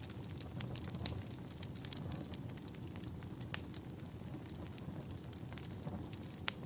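Wood fire crackling in a fireplace: a steady low rumble of flames with scattered sharp pops and snaps, one louder pop about halfway through and another near the end.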